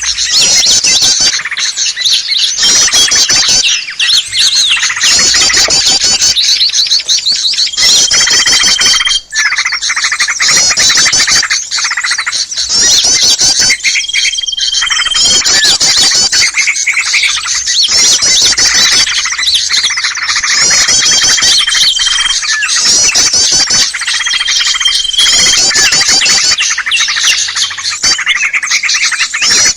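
Noisy, dense chorus of many small songbirds chirping, trilling and chattering without pause: a bird-trapping lure recording made to draw in small birds. A short, steady whistle cuts through four times.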